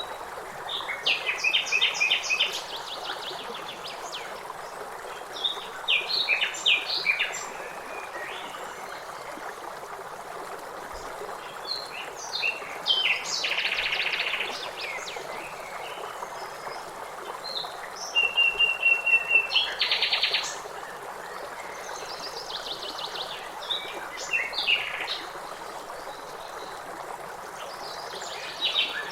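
Songbirds singing in repeated short phrases, with a river's water running steadily underneath. A fast trill and a steady whistled note near the 18-second mark are among the loudest phrases.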